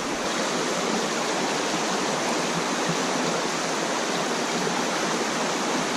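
Shallow mountain stream rushing and splashing over rocks, a steady, even rush of water.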